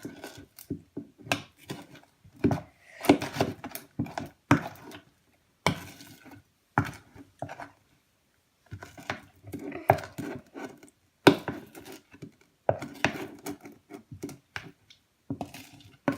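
A utensil knocking and scraping against a bowl in irregular strokes while slime is mixed, with a short pause about halfway through.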